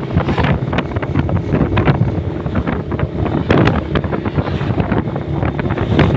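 Wind buffeting the microphone of a riding motorcycle, over the steady running of its engine and road noise.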